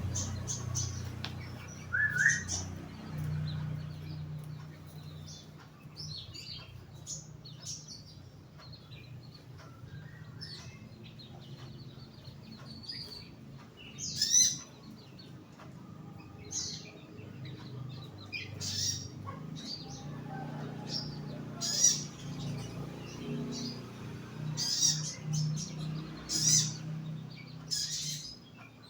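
Young sogon giving short, high chirps and calls at irregular intervals, some of them gliding in pitch, over a steady low hum.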